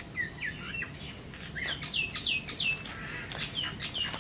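Birds calling: a few short chirps, then three loud notes that sweep steeply downward about two seconds in, followed by a run of shorter repeated notes near the end.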